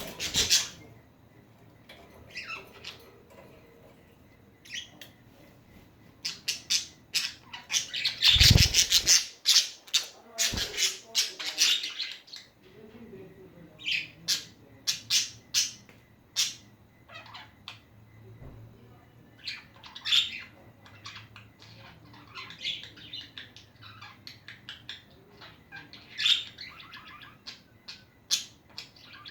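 Pet budgerigars chirping and squawking in many short calls, busiest from about six to twelve seconds in. A low thump comes about eight and a half seconds in, amid the loudest calling.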